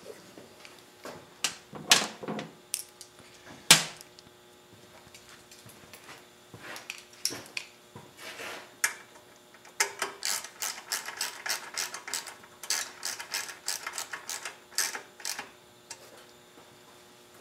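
Hand ratchet wrench clicking as bolts are run down on a mower engine, with a few separate metal knocks of tools and parts first, then a long quick run of ratchet clicks.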